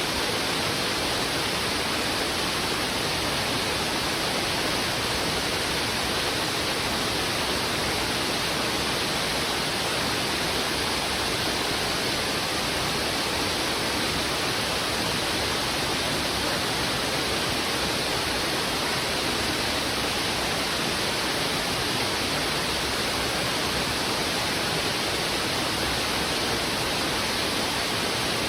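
Heavy river current rushing over rocks: a steady, even rush of water that does not vary.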